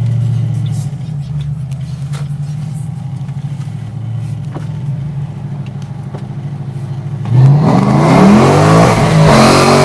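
2005 Ford Mustang GT's 4.6-litre three-valve V8 through an off-road H-pipe and Flowmaster Super 10 mufflers, running low and steady at first, then about seven seconds in going to hard throttle: much louder, with the engine's pitch climbing quickly and then holding high. A deep exhaust note.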